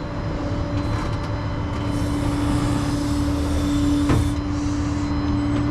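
Tow truck's engine idling: a steady low drone with a constant hum, a hiss in the middle and a short click about four seconds in.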